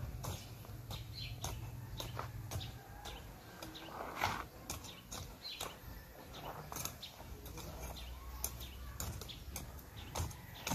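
Small hand tool chopping and scraping garden soil while weeding: irregular sharp clicks and scrapes, the loudest about four seconds in, over a low rumble.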